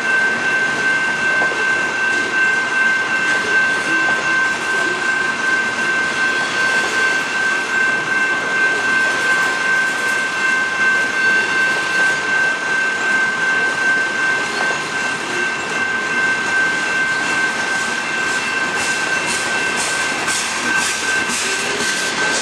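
Covered hopper cars of a long freight train rolling past, with a steady rumble of wheels on rail and a steady high-pitched ringing tone held throughout. Near the end the wheels clack rhythmically over the rail joints.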